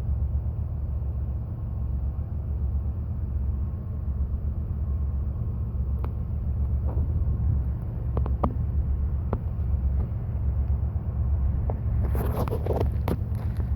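Freight train rolling past with a steady low rumble. Scattered sharp clicks and knocks come from about halfway through, and a quick run of louder metallic clanks comes near the end.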